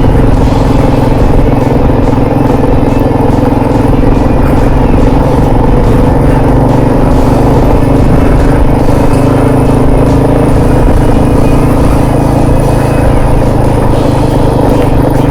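Motorcycle engine running loud and steady at an even speed on a dirt trail.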